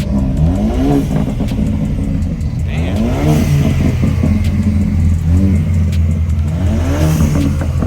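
A car engine being revved in short blips, its pitch sweeping up several times over a steady low engine rumble.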